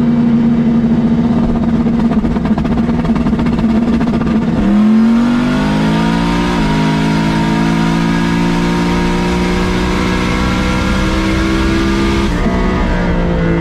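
Drag car engine heard from the cockpit, running at steady high revs, then pulling hard about four and a half seconds in with the pitch climbing. The revs drop at a gear change about two seconds later, climb slowly again at full throttle, and fall away near the end as the throttle comes off.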